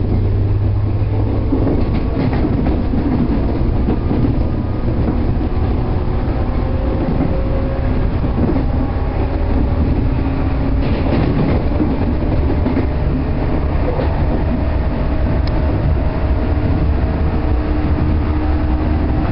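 JR 113 series electric train running at speed, a steady low rumble with some rhythmic rail-joint clacking and faint steady motor tones.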